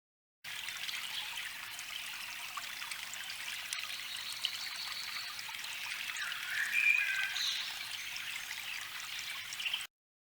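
Recording of a babbling brook: steady trickling water that starts and cuts off abruptly, with a few short chirps about two-thirds of the way through.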